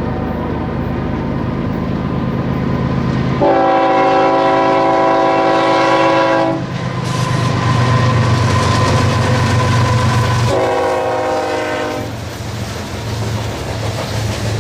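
Diesel locomotives on a BNSF coal train sounding a multi-chime air horn: a long blast about three seconds in and a shorter blast about ten seconds in. Both blasts sound over the steady low drone of the locomotive engines.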